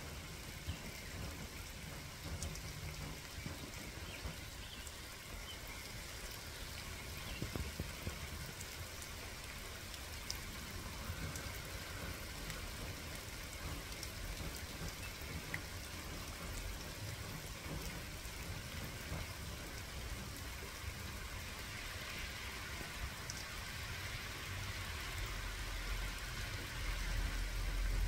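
Steady rain falling, a constant hiss with scattered drops ticking. A low rumble builds near the end.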